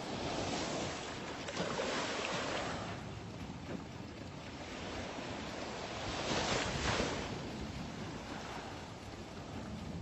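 Boat on open water: a rush of water and wind noise without a clear engine note, swelling louder during the first few seconds and again about six to seven seconds in.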